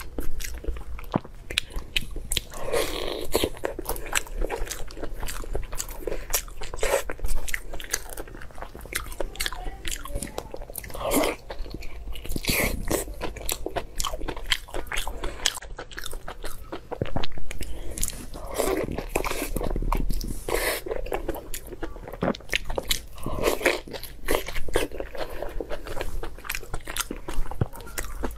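Close-miked eating of plump meat-filled sausages: wet bites and steady chewing, with many small clicks and smacks of the mouth.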